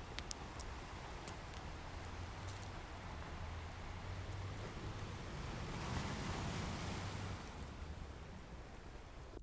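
Ocean surf washing in as a steady rush, one wave swelling and breaking about six seconds in, with a few sharp fireplace crackles in the first couple of seconds.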